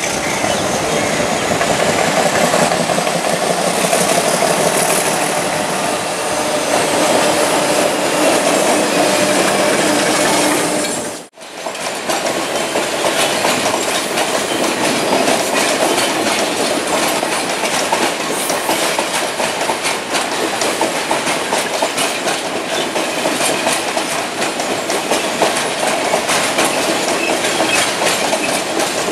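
Diesel-hauled passenger train passing, its wheels clattering over rail joints and points, with a short break about eleven seconds in.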